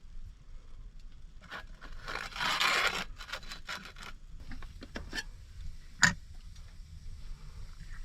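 Handling noises: a rustling scrape about two seconds in, scattered small clicks, and one sharp knock about six seconds in.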